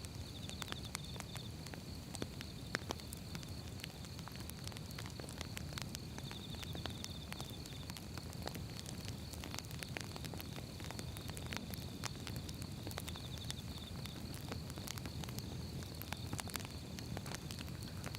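Firewood burning, with irregular sharp crackles and pops over a steady low rumble of the fire. A short, faint high trill sounds three times.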